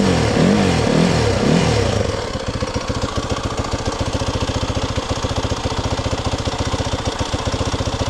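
Engine of a 4x4 off-road vehicle running just after starting, its speed rising and falling unevenly for about two seconds and then settling into a steady idle with the choke off.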